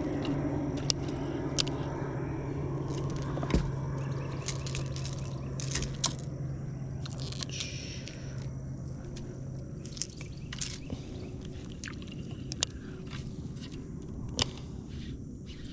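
A steady low motor hum that fades away over the first half, with scattered sharp clicks and knocks throughout.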